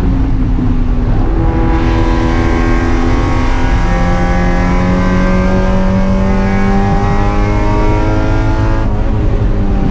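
Spec Miata race car's four-cylinder engine heard from inside the cabin, pulling hard with its pitch climbing slowly, then dropping suddenly near the end. A heavy low rumble of road and wind noise sits under it.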